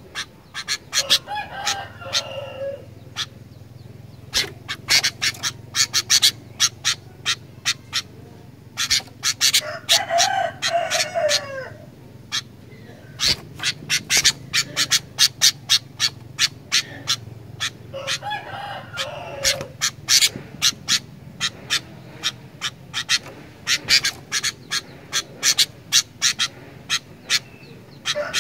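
Sooty-headed bulbul (kutilang) calling: long runs of sharp, rapid chipping notes, broken by three short warbling phrases about a second in, about ten seconds in and about eighteen seconds in.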